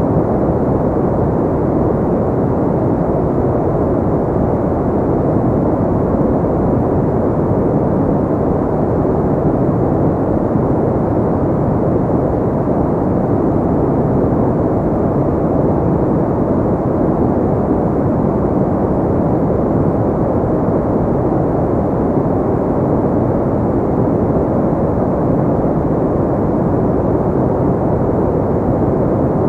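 Steady, unchanging noise for sleep or relaxation, weighted toward the low end with little hiss above, so it sounds like a deep, even rush rather than a bright hiss.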